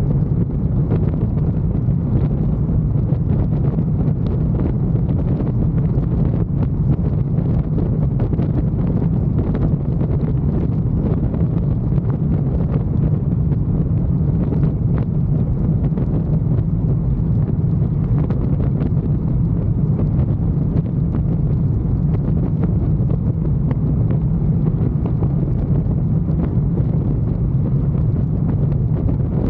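Motorcycle riding at a steady speed: an even engine drone with wind rushing over the microphone.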